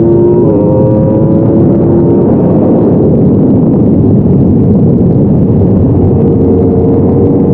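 Yamaha R1 inline-four sportbike engine under hard acceleration on track, shifting up about half a second in with the pitch climbing as it pulls. Heavy wind rush at speed covers much of the engine note on the rider-mounted camera.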